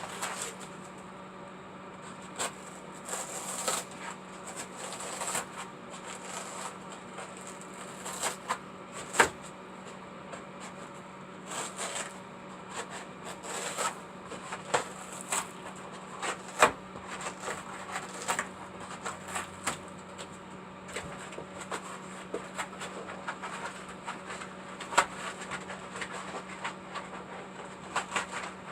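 Irregular clicks, taps and short scrapes of hands working on craft materials, over a steady low hum.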